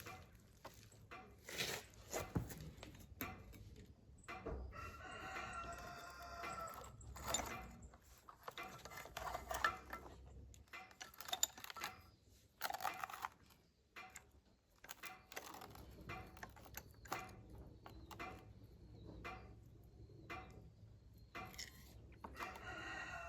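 A rooster crowing, one long call about five seconds in and another near the end, over scattered short knocks and clicks.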